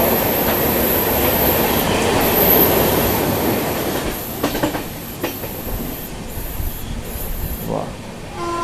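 Passenger train heard from on board while running: a steady rumble of wheels on rail, louder for the first few seconds, then quieter with a few clicks and a short wheel squeal near the end.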